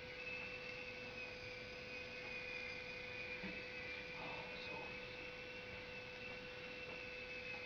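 Small toy RC helicopter with two counter-rotating rotors, its electric motors whining steadily in flight. The pitch wavers slightly as the throttle changes, with a fainter steady hum underneath.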